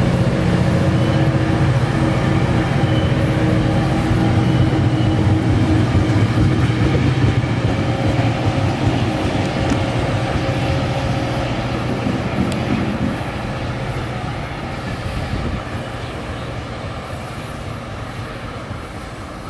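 Metrolink diesel commuter train pulling away, its engine running with a steady low drone and the bilevel cars rumbling over the rails. The drone stops about two-thirds of the way through, and the rumble fades as the train draws off.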